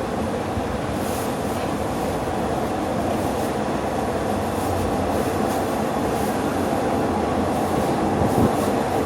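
Diesel-hauled passenger train running along the track: a steady rolling rumble that grows slightly louder, with faint high wheel squeals and a couple of short knocks near the end.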